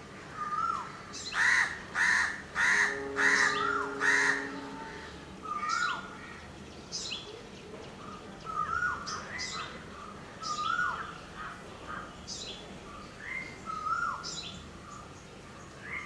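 Wild birds calling: five loud, harsh calls in quick succession from about one to four seconds in, over a short call that rises and then drops sharply, repeated every second or two.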